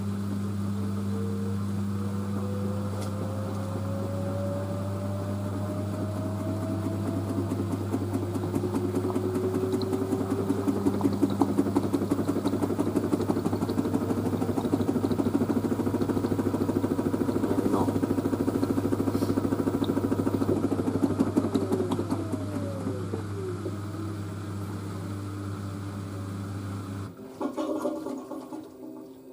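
LG direct-drive washer dryer trying to reach spin with an unbalanced load of towels: the motor whine rises slowly in pitch as the drum speeds up, and a fast, steady knocking comes from the tumbling drum. The whine then falls away as the drum slows, and a steady low hum cuts off near the end.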